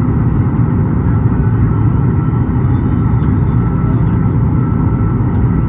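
Boeing 737 MAX 8 airliner heard from inside the cabin: a loud, steady deep rumble of engine and airflow noise with a faint steady whine above it.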